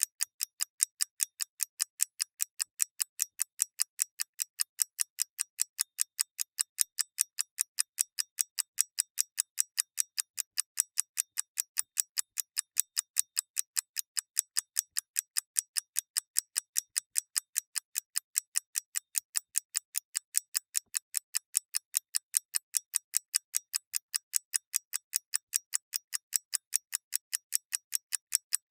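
Clockwork ticking: a mechanical escapement giving quick, crisp, evenly spaced ticks, several a second, in a steady alternating tick-tock.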